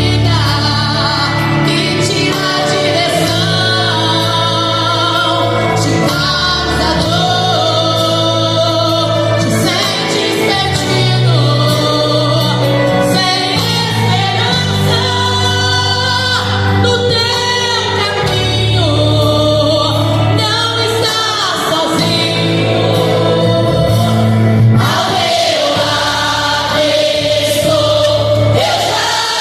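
Gospel choir singing over a steady instrumental accompaniment with a sustained bass line.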